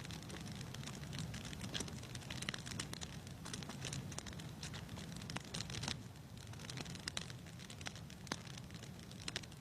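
Wood fire crackling in a fireplace: irregular pops and snaps over a low, steady rumble of the flames.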